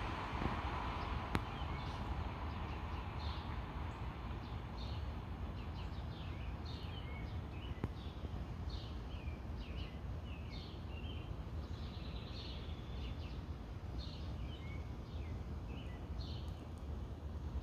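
Small birds chirping in short, falling notes, repeated many times from about two seconds in, over a steady low outdoor rumble. A louder rush fades out in the first second.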